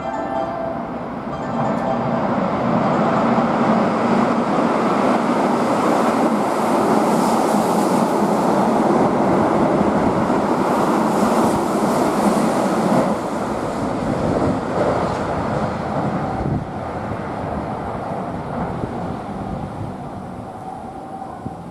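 Keihan electric train running through the station at speed without stopping: a loud rush of wheels and motors that builds over the first two seconds, holds for about ten, then fades away.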